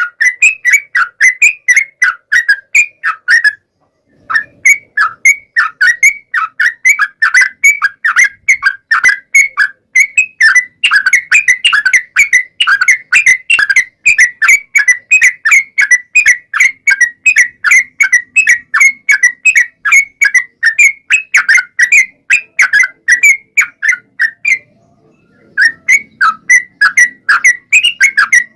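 Yellow-vented bulbul (trucukan) singing a long, rapid run of short whistled notes, about four a second, with two brief pauses. This is the long continuous 'ropel' song used as a lure to make other bulbuls answer.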